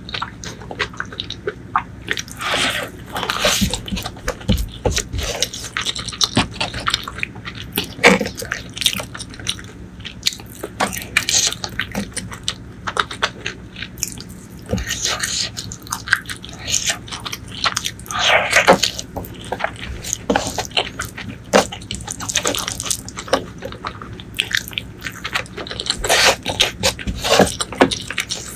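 Close-miked eating sounds: wet chewing and lip smacking of rice and fish eaten by hand, in irregular clicks and squelches, with fingers squishing rice on the plate.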